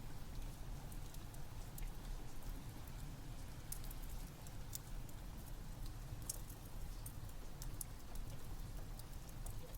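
Rain with a crackling wood fire: a steady low rumble under scattered sharp pops and crackles.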